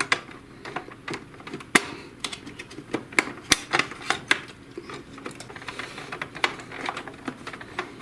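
Plastic parts of an inkjet printer's paper-feed assembly being worked loose by hand: a run of irregular plastic clicks and knocks as the white part comes free of its latches.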